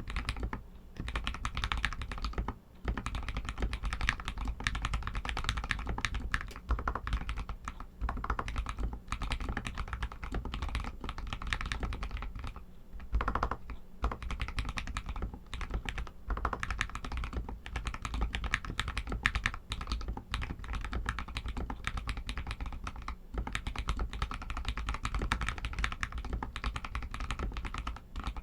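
Continuous fast typing on an RK61 mechanical keyboard with Outemu red linear switches, a dense run of key clacks broken by a few brief pauses.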